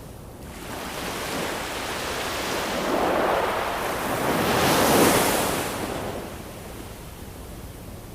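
Ocean surf: a wave swells up over a few seconds, is loudest about five seconds in, then washes back and fades to a quieter hiss.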